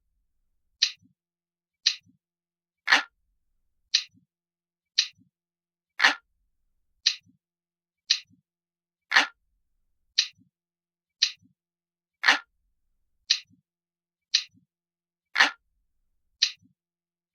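Ticking clock sound, steady at about one tick a second, with every third tick fuller and lower. A faint soft knock follows each tick.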